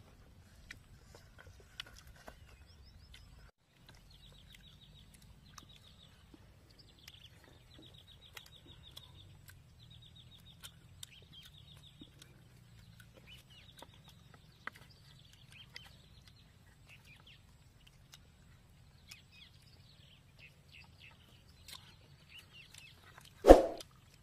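Faint outdoor background with birds calling in quick repeated chirps and scattered light clicks. Near the end comes one loud, sudden sound effect as a subscribe-button graphic pops up.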